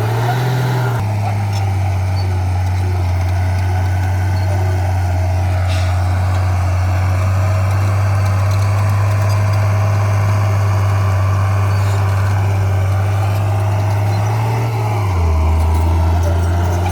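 Heavy diesel engine of earthmoving equipment running steadily with a deep drone. The engine note shifts just after the start and drops lower about fifteen seconds in.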